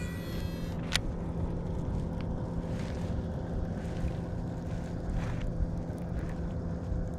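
Fishing reel being cranked steadily, retrieving a squarebill crankbait, with a steady low whirring hum, a few light clicks and wind on the microphone.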